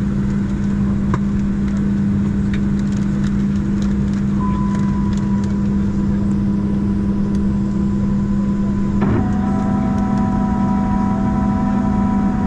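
Steady drone of a parked Boeing 737-700, a low hum over rushing air noise. A thin whine joins about four seconds in, and after a click near the end several more steady whining tones come in.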